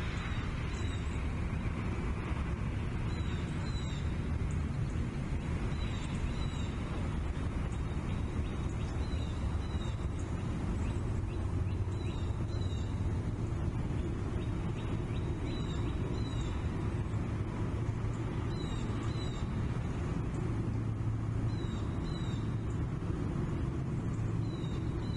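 Steady low wind rumble on an outdoor nest-camera microphone, with short high bird chirps every second or two.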